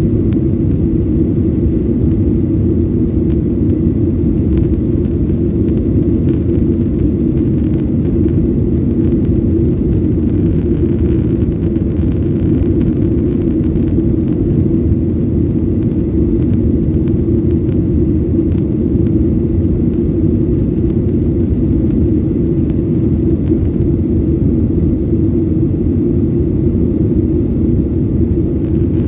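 Steady low rumble inside the cabin of a Boeing 737-800: its CFM56-7B jet engines and airflow heard from a window seat behind the wing, even and unchanging throughout.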